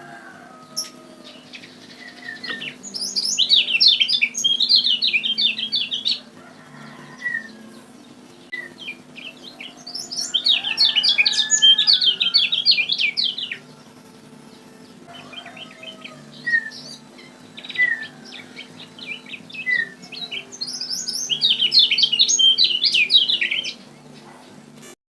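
Kecial kuning, a small Lombok white-eye, singing in three long fast runs of high chirps about seven seconds apart, with single short calls in between. It is a lure song track over a steady low hum.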